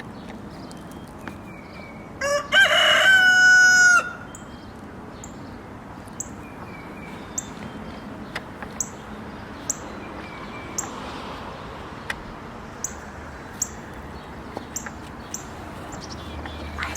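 A rooster crowing once, about two seconds in: a few short notes and then a long held call that falls at the end. A small bird keeps up short high chirps about once a second.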